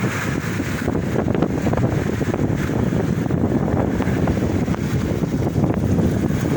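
Sea wind buffeting the microphone in a steady low rumble, over the wash of the sea.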